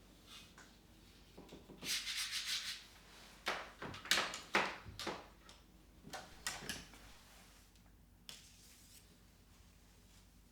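Handling noises: a quick run of rubbing strokes, then several sharper swishes and scrapes, then quiet room tone.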